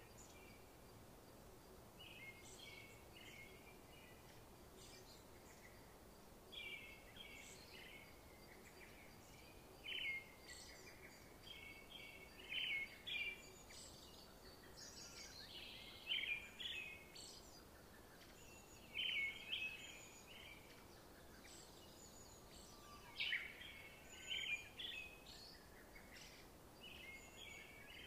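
Faint bird song: short chirping phrases every second or two over a low background hiss.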